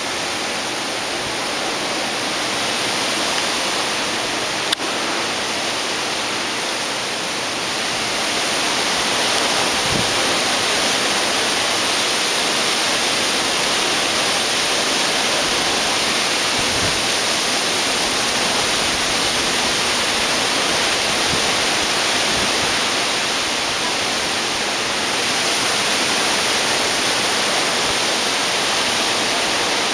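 Hurricane wind and rain: a steady rushing noise that swells a little about eight seconds in.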